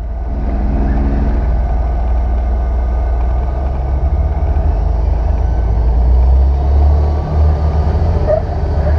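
Waterfall rushing: a steady, loud noise, heaviest in a deep rumble.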